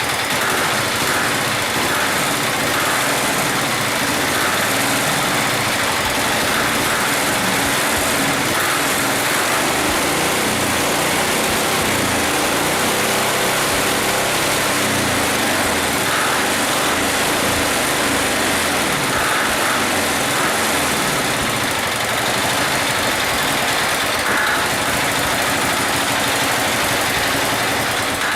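300cc diesel motorcycle engine running steadily at idle shortly after a cold start, having sat for about a year.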